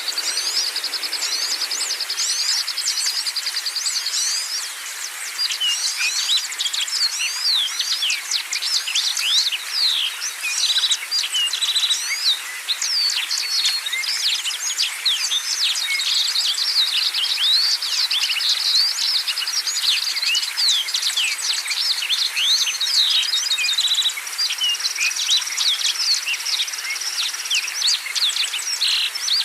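Many songbirds chirping and singing at once, a dense stream of quick overlapping whistled notes. Steady buzzy trills sound near the start, in the middle and near the end.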